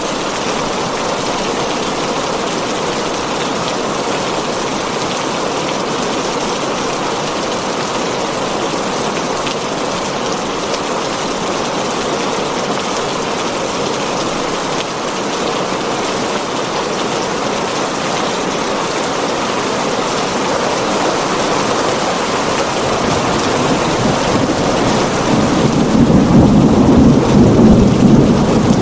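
Heavy rain drumming steadily on a tin roof. A low rumble of thunder builds near the end and grows louder over the last few seconds.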